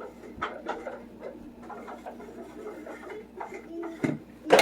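Kitchen sounds at a pot on the stove: scattered light taps and clicks over a steady low hum, then a loud clatter of pots or utensils right at the end.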